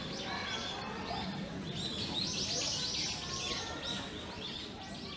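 Small birds chirping in quick runs of short, high calls, busiest around the middle, over faint background chatter of people.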